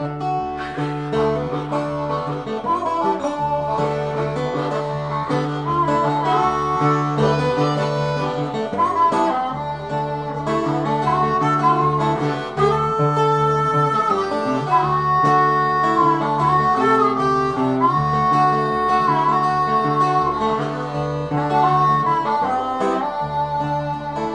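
Acoustic guitar and harmonica playing an instrumental break in a blues-style folk song: the guitar keeps a steady picked accompaniment while the harmonica carries the melody, bending and sliding between notes.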